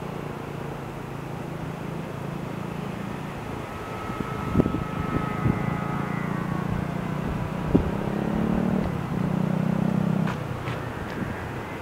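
An engine running steadily with a low hum, growing louder for about two seconds before easing off near the end. Three sharp knocks come in the middle.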